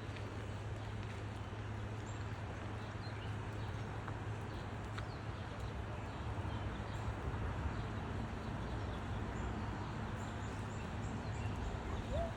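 Footsteps walking along an outdoor path, with faint bird chirps over a steady low background rumble.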